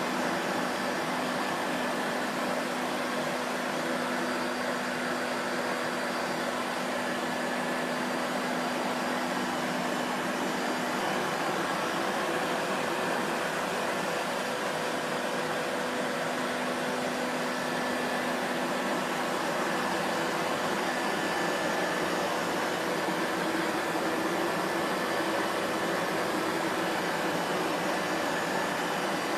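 Vacuum cleaner running steadily: an even rush of air with a faint hum underneath.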